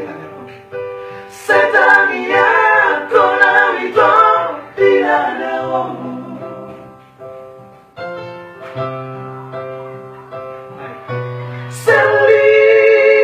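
Batak trio singing a song in close vocal harmony with musical accompaniment. The voices drop back in the middle to steadier held notes, then come in together strongly near the end.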